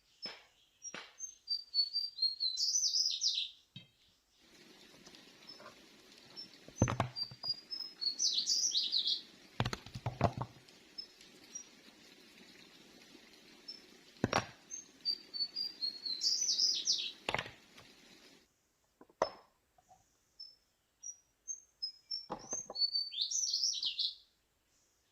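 A songbird repeats the same phrase about every seven seconds: a run of short, high chirps that builds into a louder tumbling flourish. Several dull thuds fall between the phrases.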